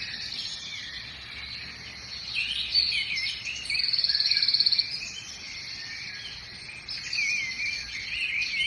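Outdoor chorus of birds chirping and singing over a steady high insect trill; about four seconds in a louder, rapidly pulsing trill lasts for about a second.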